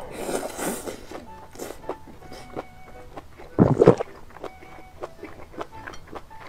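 Close-miked eating: a mouthful of noodles and duck intestines slurped in, then wet chewing with many small mouth clicks. One louder, deeper noise comes about three and a half seconds in.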